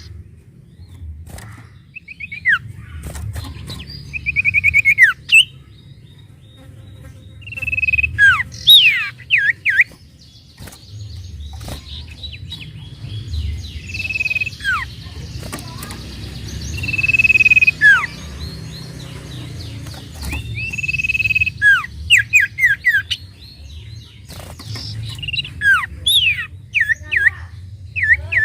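Sirtu songbird singing in bursts: short buzzy trills held at one pitch alternate with quick downward-sliding whistled notes, over a steady low hum.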